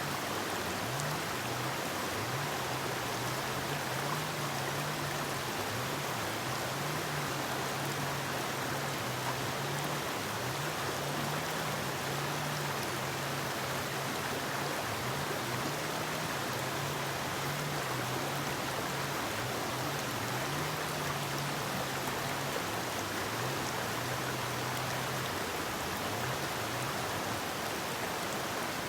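Forest river flowing, a steady rush of water over rocks, with a low wavering hum underneath.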